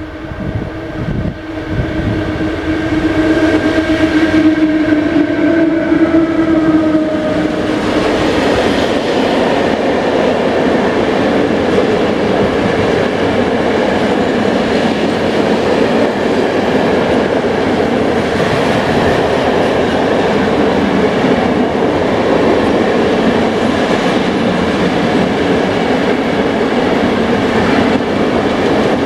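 A train passing close by on the rails: a steady droning tone for about the first eight seconds, then a loud, even rumble and clatter of wheels and cars going by.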